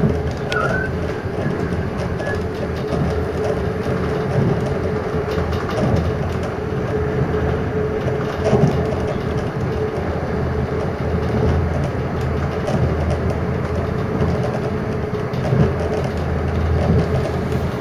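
Passenger train running, heard from inside the carriage: a steady rumble with a constant hum running through it.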